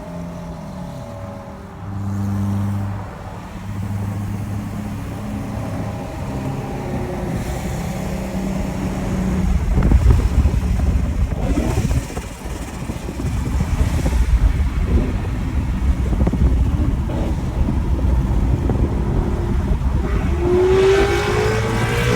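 V8 car engines running, first at a steady low cruise, then louder from about ten seconds in, with an engine revving up, its pitch rising, near the end.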